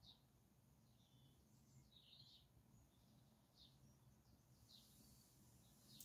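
Near silence, with faint, short, high bird chirps about once a second over a low background hum.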